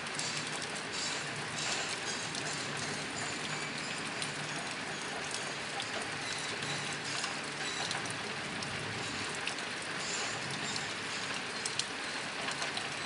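Steady rain drumming on a nearby tin roof, a dense patter of drops striking the metal with scattered louder individual hits.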